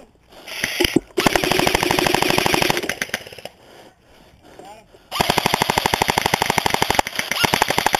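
Airsoft rifle firing full-auto in two long bursts of rapid shots, the first starting about a second in and the second about five seconds in, each lasting around two seconds, with a few single shots around them.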